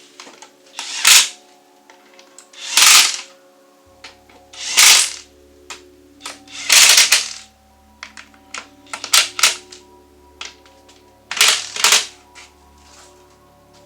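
Power driver driving screws into plywood in short bursts, about every two seconds, with small clicks between, over background music.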